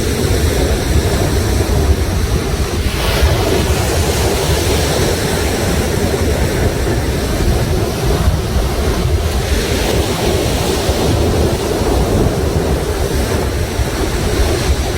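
Sea waves washing and breaking on a rocky shore in a steady, continuous rush, with wind buffeting the microphone.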